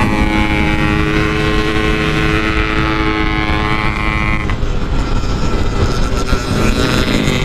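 Yamaha RX-King 135cc two-stroke single running under way, holding a steady pitch for about four seconds, then breaking up and settling again, over a low rumble of wind on the microphone.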